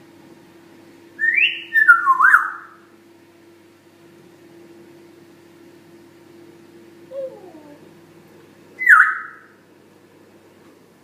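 Pet parrot whistling: a quick run of sliding whistles about a second in, a faint lower falling whistle around seven seconds, and one more loud falling whistle near nine seconds.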